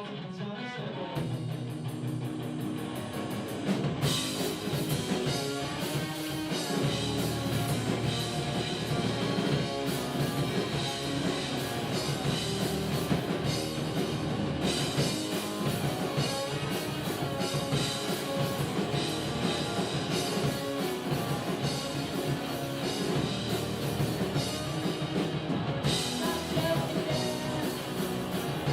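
Rock music with electric guitar, drums and singing. It starts with guitar and quick, even cymbal ticks, and the full band comes in about four seconds in.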